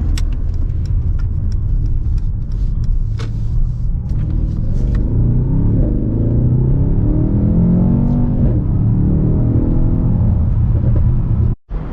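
Mercedes-AMG S63's twin-turbo V8 exhaust, loud throughout. There are sharp cracks over the first few seconds. From about halfway the engine revs, its pitch climbing and falling. The sound cuts off abruptly near the end.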